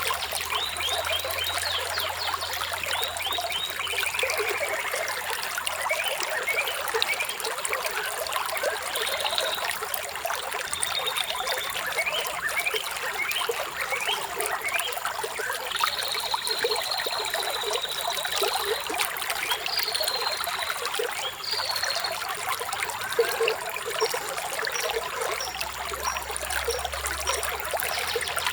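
Shallow water trickling and babbling steadily, with small birds chirping over it: quick runs of high chirps, a falling whistle about four seconds in, and a longer high trill a little past the middle.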